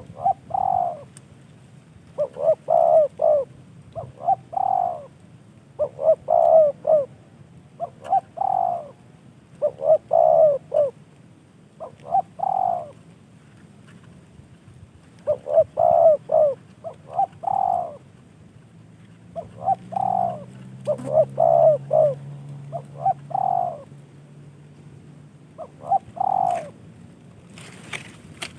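Spotted dove (tekukur) cooing over and over in short phrases of several notes each, repeated every couple of seconds with a pause of a few seconds midway.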